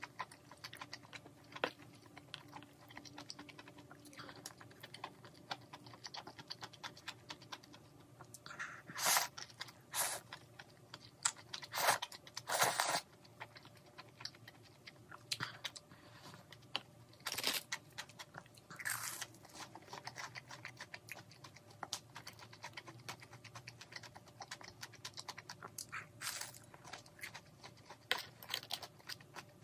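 A person chewing a mouthful of malatang, with continual small wet mouth clicks and several louder, noisier bursts of eating sound, the loudest about twelve to thirteen seconds in.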